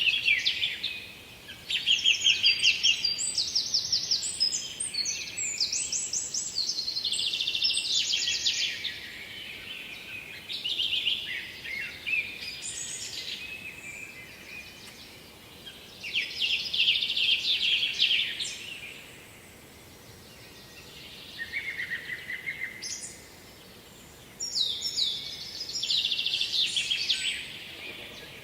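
Songbirds singing: phrases of rapid, high trilled notes that last a few seconds each and come again after short pauses.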